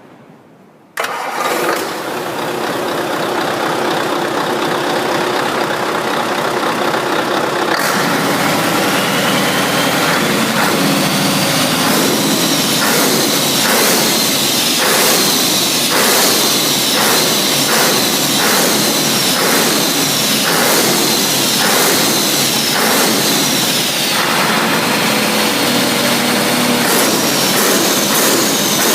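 Rebuilt Scania DTC1101 inline six-cylinder diesel engine starting abruptly about a second in, then running steadily.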